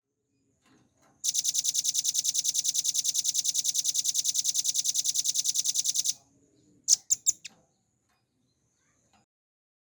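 Velvet-fronted nuthatch (rambatan paruh merah) singing a long, rapid, even trill of sharp high notes, about a dozen a second, for some five seconds. A second later it gives a quick run of three or four loud, sharp notes.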